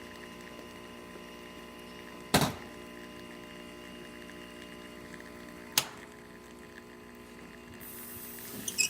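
Isomac E61 espresso machine's pump running steadily with a constant hum while pulling a shot at 9 bar. Two sharp knocks come about two and a half and six seconds in, and a few clicks near the end.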